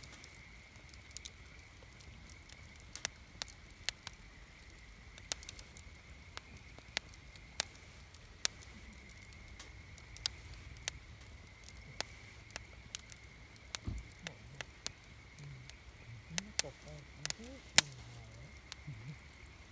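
Wood campfire crackling, with sharp pops and snaps at irregular intervals over a low, steady hiss of burning; a few of the pops near the end are louder.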